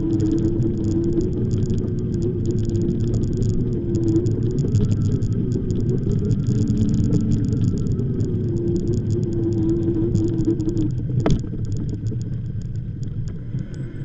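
Riding noise on an e-bike: low wind rumble on the microphone with a steady hum over it that stops about eleven seconds in, followed by a single sharp click.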